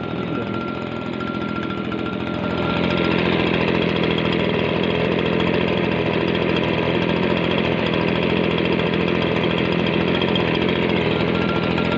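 Stihl BG56 handheld leaf blower's two-stroke engine running steadily. About two and a half seconds in it speeds up and gets louder, then holds at the higher speed.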